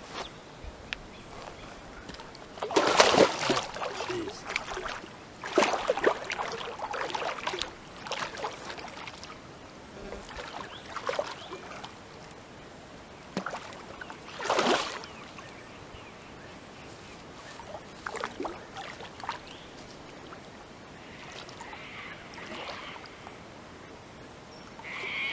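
Water splashing and sloshing in short irregular bursts, the loudest about 3, 6 and 15 seconds in, with quieter trickles and dribbles between.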